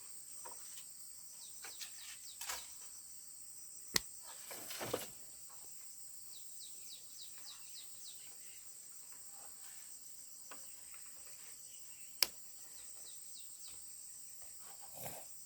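Steady high-pitched insect chorus, with many faint short chirps over it. Two sharp knocks stand out, one about four seconds in and one about twelve seconds in.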